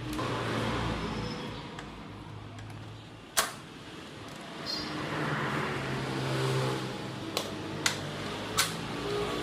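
Metal engine parts and tools being handled while a motorcycle engine is taken apart: one sharp knock about three and a half seconds in, and three lighter clicks near the end, over a steady low hum.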